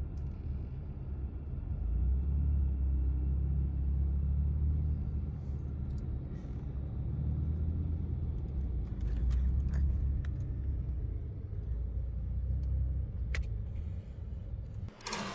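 Steady low rumble of a car driving on the road, with a few faint clicks in the second half.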